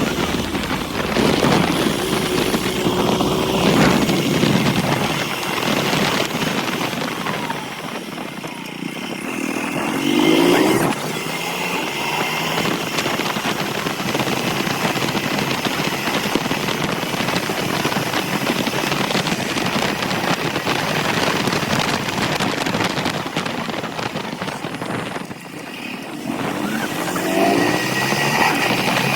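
Motorcycle riding, its engine rising in pitch as it accelerates several times, under a steady rush of wind on the microphone.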